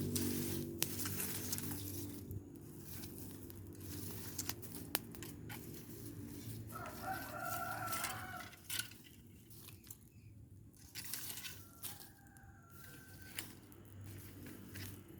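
A rooster crowing once about seven seconds in, with a fainter crow a few seconds later, over scattered sharp clicks and crackles. A low droning hum at the start fades away over the first few seconds.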